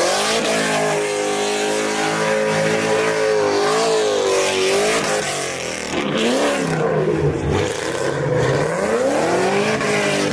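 Car engine revving hard: held at high revs with small wavers for about five seconds, then revving up and dropping back several times.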